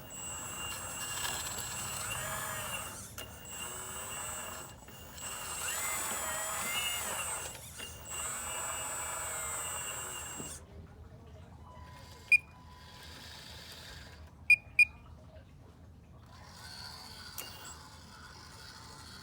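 Motors and hydraulic pump of a MAGOM HRC 330D model of a CAT excavator whining in three bursts, the pitch wavering as the machine moves. After that it goes quieter, with three short sharp clicks, one and then a close pair.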